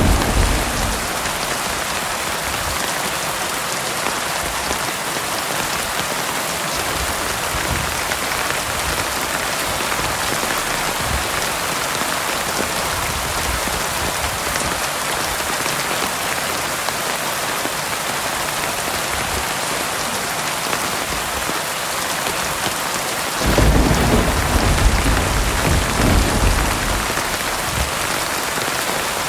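Heavy rain falling steadily in an even hiss. A low thunder rumble fades out in the first second, and another rolling rumble of thunder comes in about 23 seconds in and lasts a few seconds.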